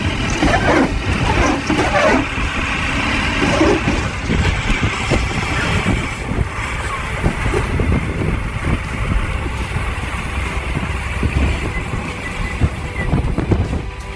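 Heavy truck engine working under load over rough ground: a dense low rumble with irregular knocks and clatter, the engine note rising and falling in the first few seconds.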